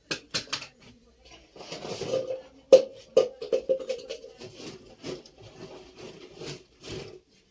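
Hammer striking steel: a series of sharp knocks with a ringing metallic tone. The loudest blow comes almost three seconds in, followed by several quicker ringing taps.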